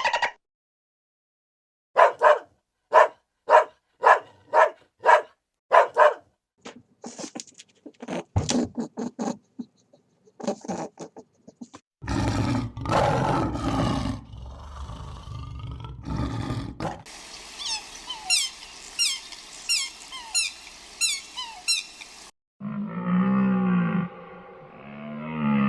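A string of different animal calls, one clip after another. There are about five evenly spaced calls, then a loud harsh stretch like a roar, a fast run of short falling chirps, and low pulsing calls near the end.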